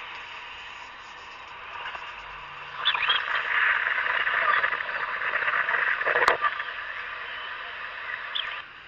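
A dense chorus of animal calls, growing louder about three seconds in and dropping back near the end, with one sharp click a little past six seconds.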